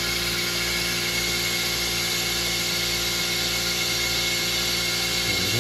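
Compressed-air venturi vacuum coolant-refill tool running wide open, a steady hiss with a steady whine under it, pulling vacuum on the cooling system of a Toyota Highlander 3.5 V6 before refilling.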